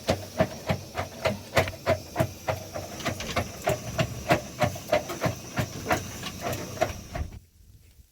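Something being ground by hand, with rapid rhythmic knocks, about three or four a second, over a steady high hiss. It stops abruptly near the end.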